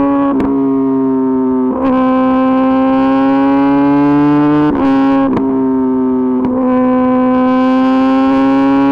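Kawasaki ZX-10RR's inline-four engine through an Arrow Pro-Race exhaust, running hard at high revs on the move: a steady engine note whose pitch climbs slowly, broken about five times by brief cuts in the drive as gears are shifted.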